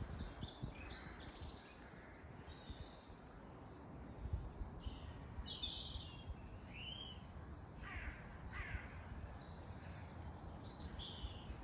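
Faint bird calls outdoors: short separate calls come and go through the second half, a few of them falling in pitch, over a low steady rumble of outdoor background noise.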